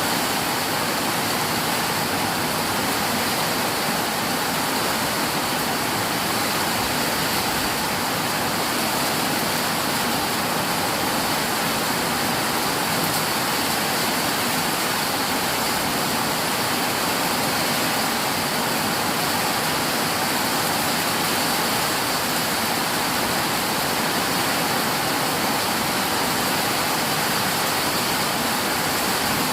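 Heavy storm rain pouring down, a steady, unbroken rush.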